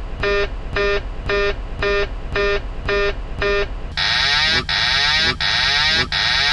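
Boeing 737 MAX cockpit aural warning tones: a pitched intermittent beep repeating about twice a second, which about four seconds in gives way to a different, higher repeating alert with a falling warble, about three every two seconds.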